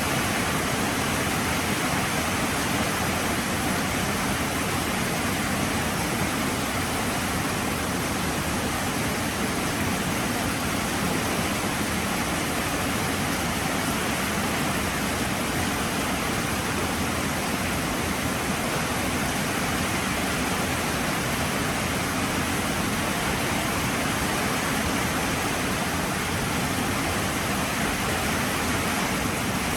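Heavy rain falling, a dense, steady hiss with no breaks or single drops standing out.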